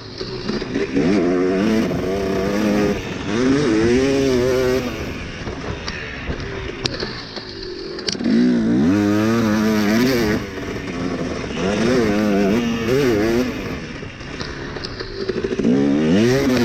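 Dirt bike engine revving as it is ridden, the pitch climbing and dropping in repeated surges every couple of seconds with brief lulls between them.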